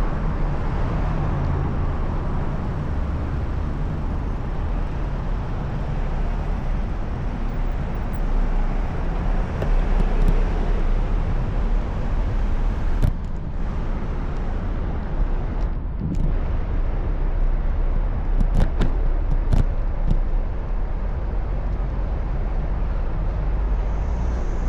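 Continuous rumble of wind and road noise heard while riding a bicycle through traffic, with a few short sharp clicks or knocks a little past halfway through.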